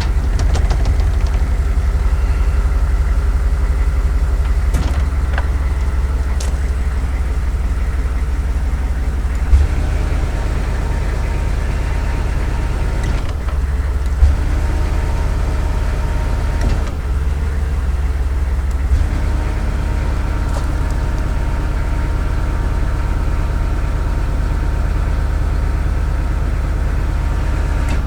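Chevrolet 3500 HD diesel truck engine running steadily at idle, driving the PTO hydraulics as the bucket boom is raised; the tone above the engine shifts a few times as the controls are worked. Two short sharp knocks, about ten and fourteen seconds in.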